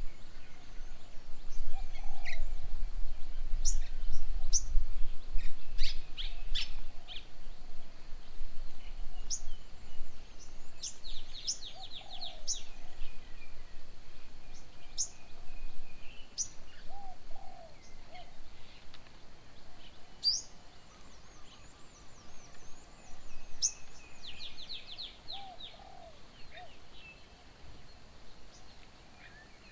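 Several wild birds calling: many short, sharp, high chirps, two quick rattling trills, and a few short lower notes. There is a low rumble in the first several seconds.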